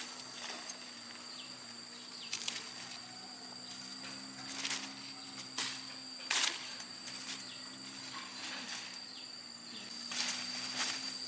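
Steady high-pitched insect chirring in the background, with a faint low hum beneath. Several short knocks or handling noises stand out over it, at about 2.5, 4.7, 5.6, 6.4, 10.2 and 10.8 seconds.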